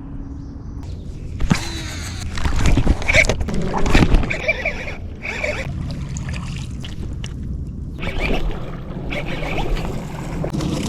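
Water splashing and sloshing in irregular bursts, loudest about two to four seconds in and again briefly near eight seconds, with a few sharp knocks.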